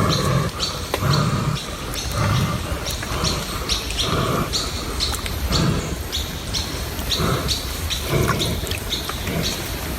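Birds chirping: short high calls repeating two or three times a second, over a lower pulsing sound about once a second.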